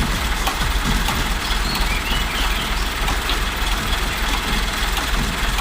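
Concrete mixer truck's diesel engine idling steadily with a deep, even rumble.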